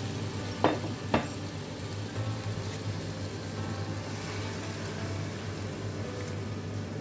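Chicken pieces sizzling as they are stir-fried in a wok and turned with a slotted spatula. Two sharp knocks come about a second in.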